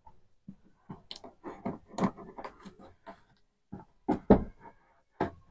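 A cardboard box being handled and opened by hand: irregular rustles, scrapes and taps, loudest about two seconds in and again just after four seconds.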